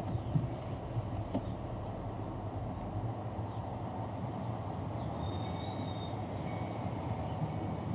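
Steady rumble of a vehicle driving, heard from inside the cab: engine and road noise.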